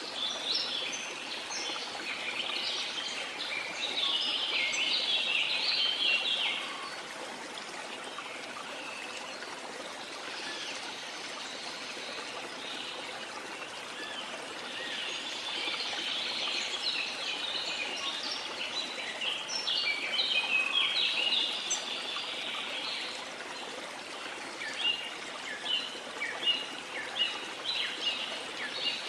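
Jungle birds singing and chirping in spells over a steady rush of falling water, with a bird repeating short sharp notes near the end.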